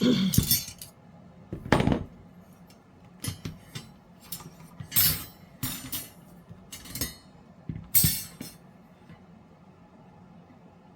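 Resin trays and tray-stand parts being handled and fitted together, giving a run of irregular knocks and clinks. The loudest come at the start, about two seconds in and about eight seconds in, and the last few seconds are quiet.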